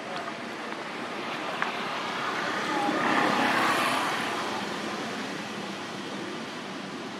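A vehicle passing by: a wash of engine and road noise that swells to a peak about three and a half seconds in, then fades away.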